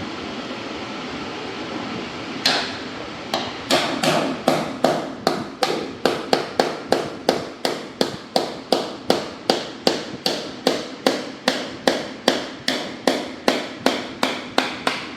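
A hammer striking repeatedly and evenly, about two blows a second, starting a couple of seconds in. This is typical of knocking out the remains of an old laminate floor plank.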